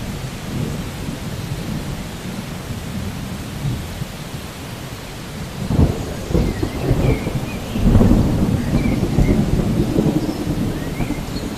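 Thunderstorm ambience: steady rain with low rolling thunder, rumbles swelling about six seconds in and again about eight seconds in.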